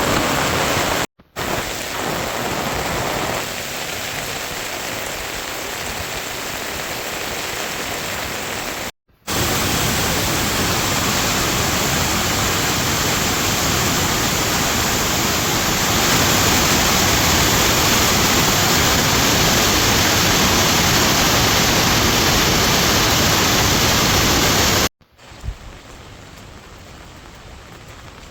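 Steady rain hissing, in several takes cut together: the sound breaks off abruptly about a second in, about nine seconds in, and near the end, where it comes back much quieter.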